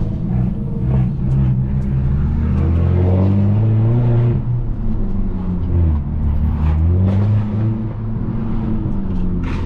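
Straight-piped, turbocharged Mercedes-Benz C250 engine accelerating through the gears: the revs climb, drop at a shift about four seconds in, climb again and then hold steady. A few sharp exhaust pops come near the end.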